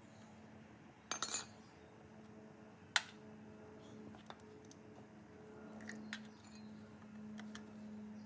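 Metal parts and tools clinking as they are handled: a short cluster of clinks about a second in, one sharp click about three seconds in and a few light ticks near six seconds, over a steady low hum.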